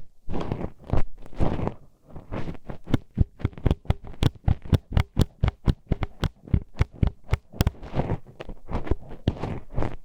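Metal hairpins poked and scraped inside a binaural microphone's ear, close up: scratchy rubbing at first, then from about two seconds in a fast run of sharp clicking taps, several a second, going back to rubbing near the end.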